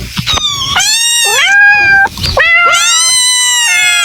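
Kitten meowing: a few high-pitched mews in a row, the last one drawn out for over a second.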